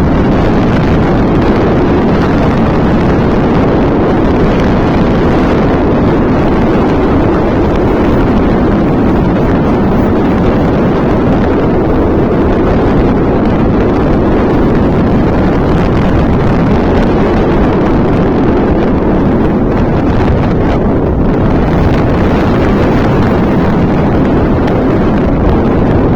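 Loud, steady wind buffeting a microphone on a moving motorcycle, mixed with the bike's engine and road noise.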